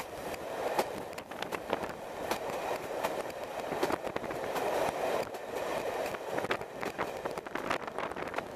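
Moving train heard from an open carriage window: a steady rush of wheel and air noise with frequent sharp clicks as the wheels run over the rail joints.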